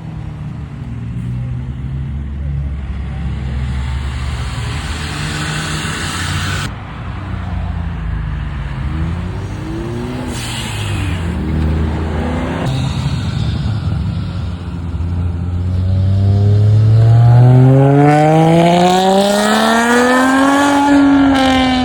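Car engines running, then one car's engine accelerating hard over several seconds. Its pitch climbs steadily and peaks near the end, where it is loudest.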